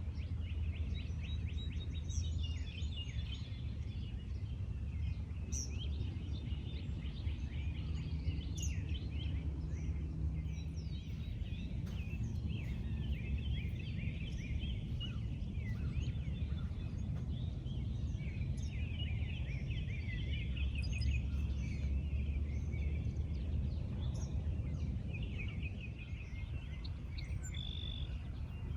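Songbirds chirping and trilling in an outdoor morning chorus, with several birds calling at once, over a steady low rumble.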